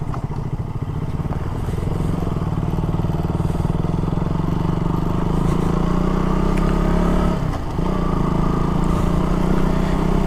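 KTM Duke 200's single-cylinder engine running under way, a steady engine note with road and wind noise. About three-quarters of the way through the note drops briefly and picks up again, as with a throttle lift or a gear change.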